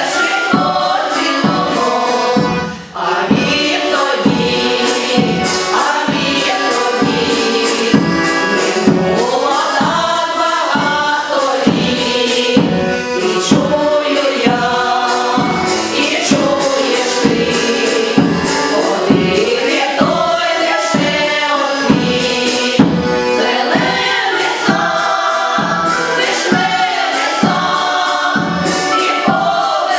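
A choir singing a song over instrumental backing with a steady beat of about two strokes a second.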